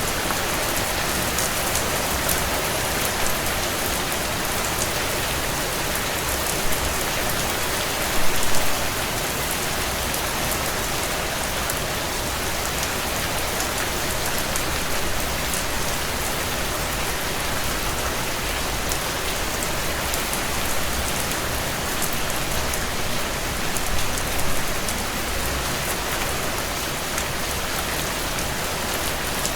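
Heavy rain drumming on a tin roof: a steady dense wash of drops with sharp individual hits, swelling briefly louder about eight seconds in and again near twenty-four seconds.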